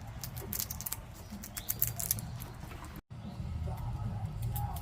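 Squirrel gnawing a peanut shell: a quick run of sharp crackling clicks in the first half, which stop about two seconds in.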